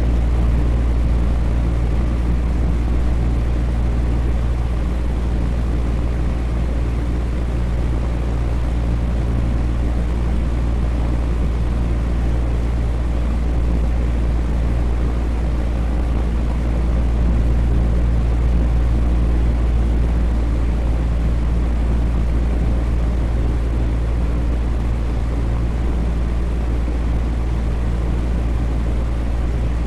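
Electric fan running steadily: a low whirring drone with a steady hum and an even rush of air, unchanging throughout.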